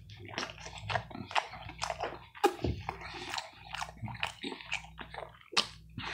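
Close-up chewing of a mouthful of DiGiorno pan pizza: many short, irregular mouth clicks and smacks, with no crunch from the soft crust.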